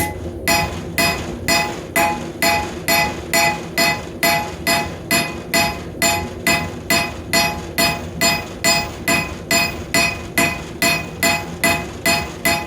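Hammer striking hot rebar steel on an anvil, about two blows a second in a steady rhythm, each blow ringing clearly, while the knife blade is drawn out.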